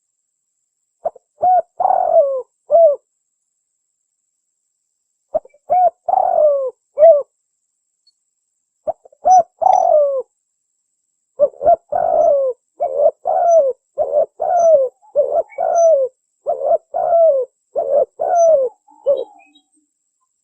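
Spotted doves cooing: short groups of three or four coos with silent gaps between them, then a long, quicker run of coos from about halfway in until near the end.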